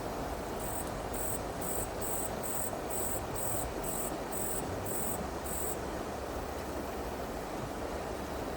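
An insect, cricket-like, chirping in a very high-pitched, even series of about two chirps a second for some five seconds, then falling silent, over the steady rush of a flowing stream.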